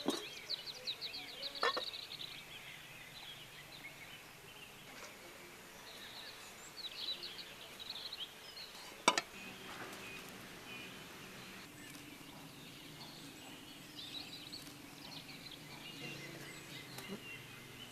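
Small birds chirping on and off over a quiet outdoor background, with two sharp clicks, one near the start and a louder one about halfway through.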